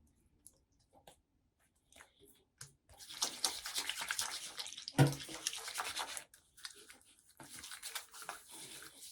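Teeth being brushed with a toothbrush: rapid scrubbing strokes start about three seconds in, pause briefly, then resume, with a single knock about five seconds in.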